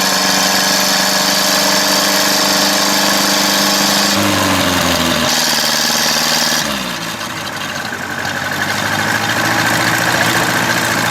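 Ferguson tractor engine running at steady high revs, its pitch falling about four seconds in as the revs drop; the engine keeps running after that, a little quieter for a moment.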